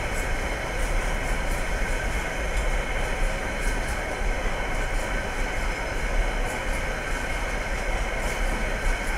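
Container wagons of a freight train rolling past: a steady rumble of steel wheels on the rails, with faint light clicks over it.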